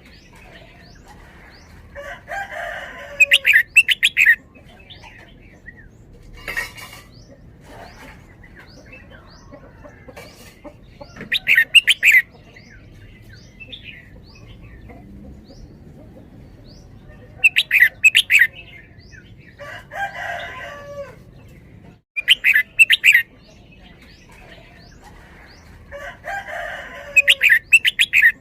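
Red-whiskered bulbul singing: loud, clear song phrases every few seconds, several given in quick pairs in the doubled 'bern-bern' style, with faint short high chirps in between.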